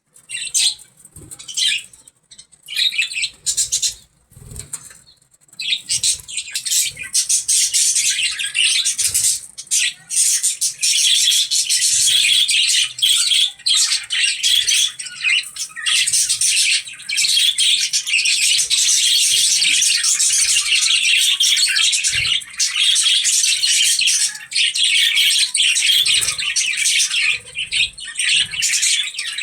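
Budgies chattering and warbling: high-pitched twittering that comes in short spurts at first and runs on almost without a break from about six seconds in.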